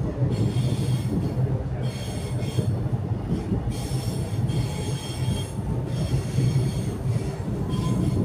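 Metro Trains Melbourne suburban train running, heard from inside the carriage: a steady low rumble of wheels on rail, with high-pitched wheel squeal coming and going about five times.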